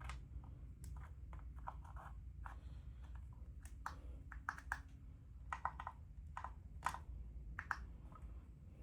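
Irregular light clicks and taps of metal engine parts being handled and set down, a few with a brief metallic ring, over a low steady hum.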